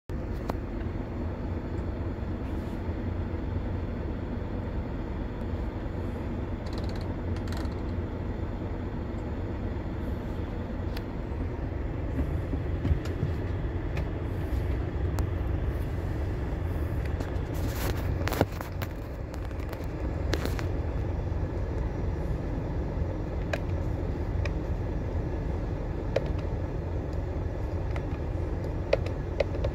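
Scania heavy vehicle's engine running with a steady low rumble. A few short, sharp noises stand out about two-thirds of the way through.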